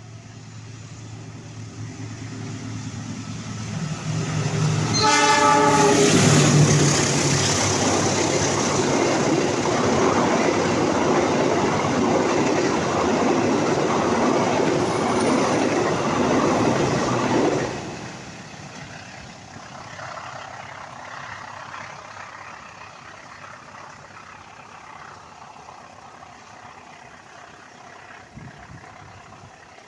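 A train passing close by. A low engine hum builds for the first few seconds, a short horn blast sounds about five seconds in, then the loud rush of the passing train runs for about twelve seconds. It drops away sharply, leaving a steady hiss.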